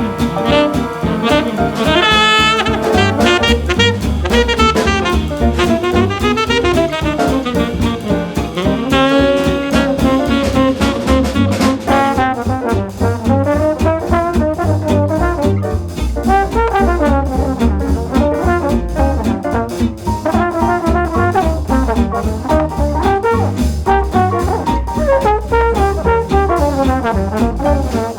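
Up-tempo swing jazz recording, instrumental, with a horn section of brass and saxophones playing over a fast, steady rhythm-section beat.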